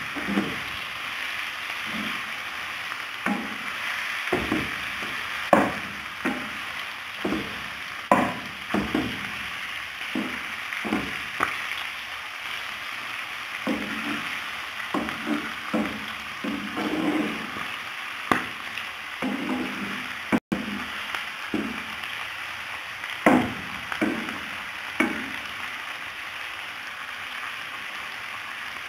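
Mutton liver pieces sizzling in oil in a non-stick frying pan, with a spatula scraping and knocking against the pan at irregular intervals as they are stirred.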